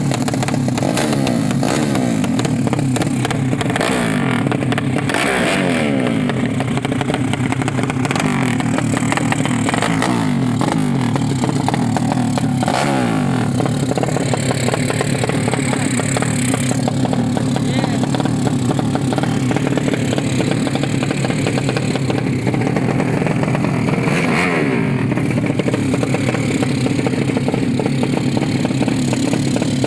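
Tuned 200cc underbone motorcycle engines running loudly and revving, with pitches falling away as bikes pass, several times, notably about 4, 10, 12 and 24 seconds in.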